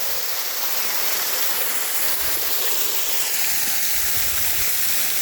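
Waterfall close up: the steady, even rush of falling water, with no break or change.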